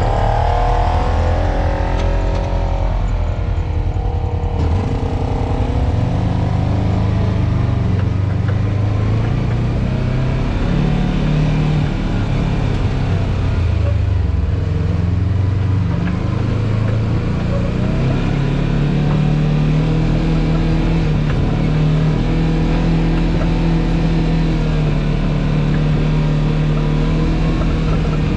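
Off-road vehicle's engine running under load and revving up and down as it climbs a steep rock obstacle, its pitch rising and falling throughout.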